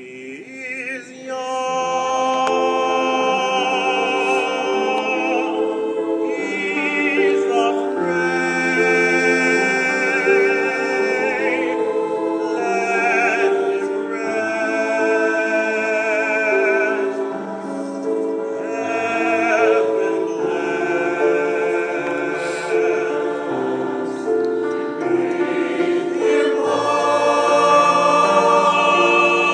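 A choir singing slow, sustained chords, the voices' held notes wavering with vibrato.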